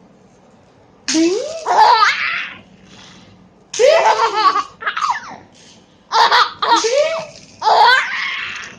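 A 5-month-old baby laughing in four bouts, each about a second long, with short pauses for breath between them.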